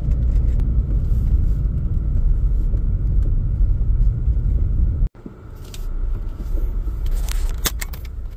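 Low rumble of a car driving, heard from inside the cabin. About five seconds in it cuts off abruptly, and a quieter rumble follows with a few sharp clicks near the end.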